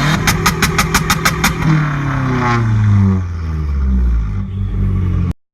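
A car engine revving up and then dropping back in pitch. A quick run of about nine sharp pops comes in the first second and a half, near the high point of the rev.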